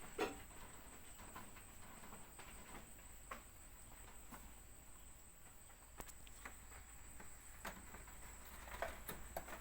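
Goats moving about in their pen: scattered faint hoof taps and knocks, a few a second at most, over a steady thin high tone.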